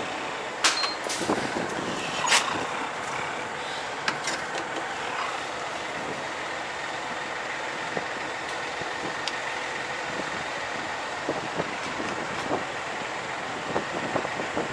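Steady noise of a semi truck being fuelled at a diesel pump, with a few sharp knocks in the first five seconds.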